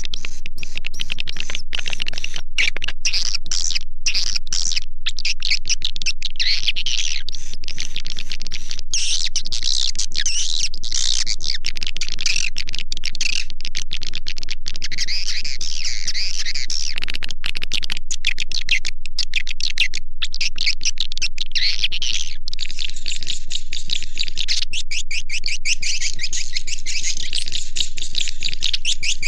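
Swiftlet call-sound recording: dense, continuous high-pitched twittering and chirping of edible-nest swiftlets, an edited lure track played from tweeters to draw swiftlets to a nesting house. About 22 seconds in, the twitter turns thinner and higher.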